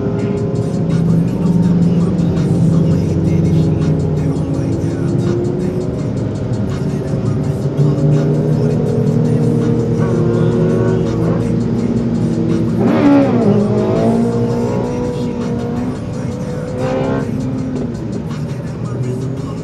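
Motorcycle engines running in heavy highway traffic, several pitches gliding up and down at once, with music playing along. About two-thirds of the way through, one bike revs sharply up and back down as it goes past, and a smaller rev follows a few seconds later.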